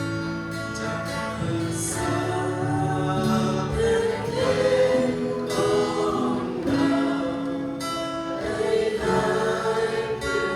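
Congregational worship song: voices singing together to guitar accompaniment.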